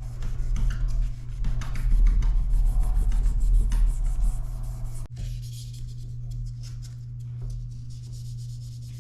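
Sandpaper rubbed back and forth by hand on a Damascus steel knife blade between ferric chloride etches, in quick strokes for about five seconds, then lighter and quieter.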